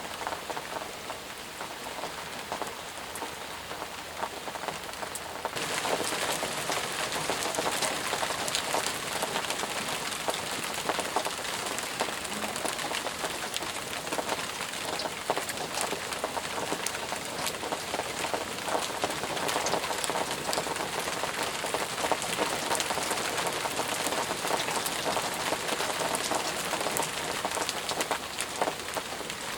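Heavy rain falling steadily, with many separate drops striking close by. About five seconds in it gets louder and brighter.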